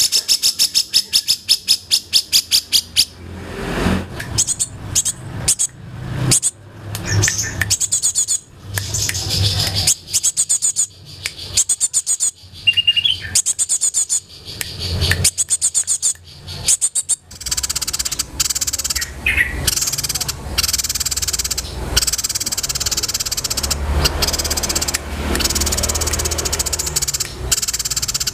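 Mixed songbird calls of grey-cheeked bulbul, tree sparrow and cinereous tit layered together as tutor audio for caged songbirds: a fast run of high chirps at first, then separate whistled phrases, and from about two-thirds in dense continuous twittering.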